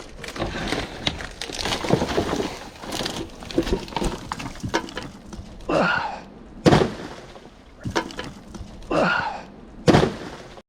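Old roof framing and boards being broken and pried apart by hand during demolition: irregular knocks and cracks of wood, with two heavy thuds, one about two-thirds of the way in and one near the end.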